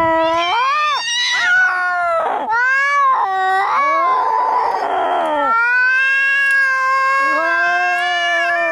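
Angry cats caterwauling in a fight: long, wavering yowls that slide up and down in pitch, with a harsh hissing stretch about four seconds in and two voices overlapping near the end.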